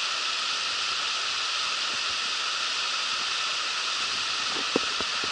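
Steady rush of fast-flowing river water running high with spring snowmelt runoff. A few light knocks sound near the end.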